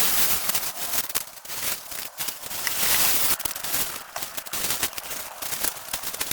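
Rapid crackling and snapping over a dense rustle, swelling to its loudest about three seconds in.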